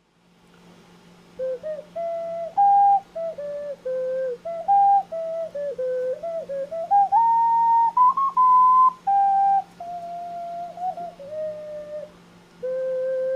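3D-printed plastic ocarina playing a slow melody of held, whistle-like notes, with a short break near the end. A steady low hum runs underneath.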